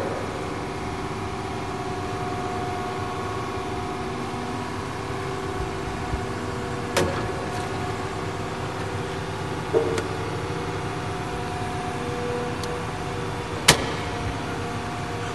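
Excavator diesel engine running steadily, with a few sharp knocks or clanks, the loudest near the end.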